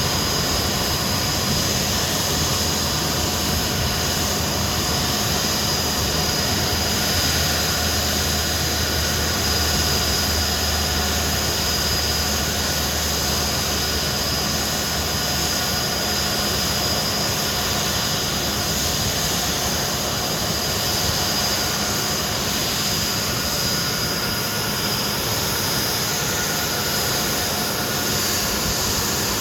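Hawker Siddeley Nimrod's Rolls-Royce Spey turbofan engines running steadily: a broad rushing noise with a high, steady whine. A low hum under it drops away about halfway through.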